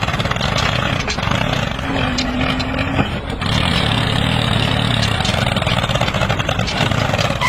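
Steady running engine-like machine noise, with a brief steady tone about two seconds in.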